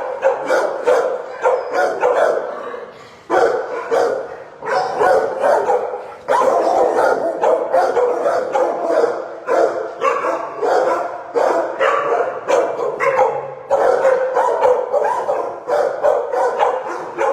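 Many shelter dogs barking at once in a kennel room, a near-continuous din of overlapping barks with a few yips.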